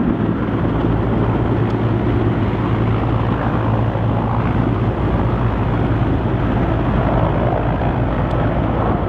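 Helicopter running nearby, a loud, steady rotor and engine noise with an even low hum.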